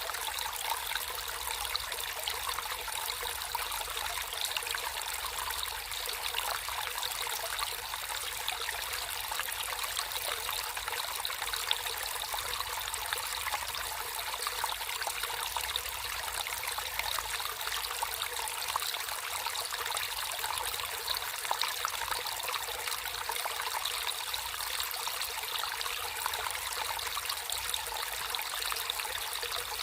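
Water trickling and flowing steadily in a small stream, a continuous bright splashing babble.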